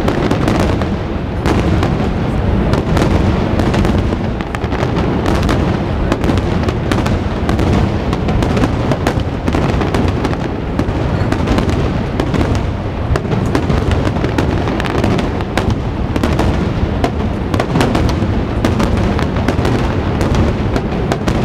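Aerial firework shells bursting in a dense, continuous barrage, the bangs coming close together and overlapping throughout.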